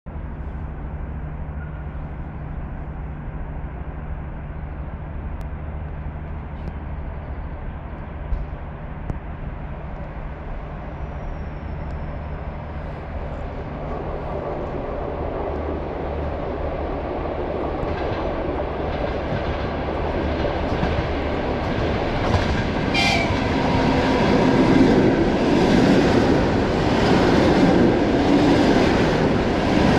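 Electric passenger train approaching along the line and then passing close by at speed. Its rumble and rail noise grow steadily louder from about halfway through and are loudest near the end, with a brief sharp high sound a little before the train reaches the listener.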